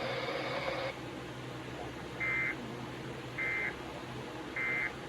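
Three short bursts of EAS SAME digital data, the end-of-message tones, each a brief warbling buzz about a second apart, closing the NOAA Weather Radio alert. Radio hiss and hum run underneath, and the louder hiss drops away about a second in.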